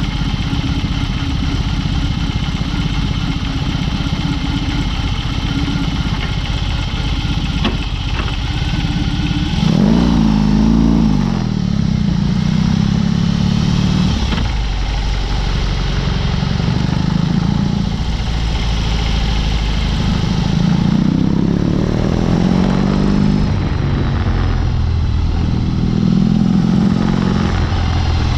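BMW R18's big boxer-twin engine running through a Dr. Jekill & Mr. Hyde aftermarket exhaust. It idles steadily for about ten seconds, then pulls away, revving up and dropping back several times as it accelerates and shifts through the gears.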